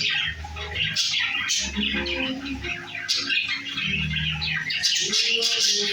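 Budgerigars chattering, a rapid run of warbling chirps and harsh squawks.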